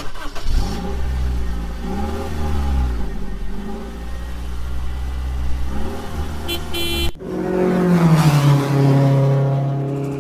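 Motor vehicle engine running, with its pitch rising and falling as it revs. A hard cut about seven seconds in switches to another engine sound whose pitch drops and then holds steady.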